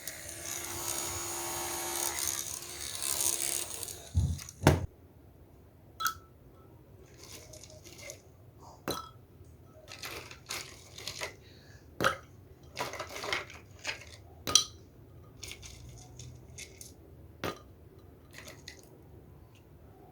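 A rushing, hissing noise for about four seconds. Then a string of separate light clicks, knocks and clinks, about one every second or so, as small hard objects are handled and set down.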